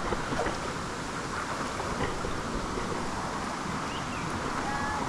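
Steady rush of a jungle stream flowing over rocks, an even wash of water noise with no pauses.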